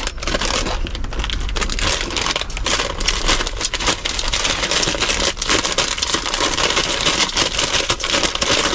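Rain pattering steadily on the roof of a car, heard from inside the cabin as a dense continuous crackle of many small drops.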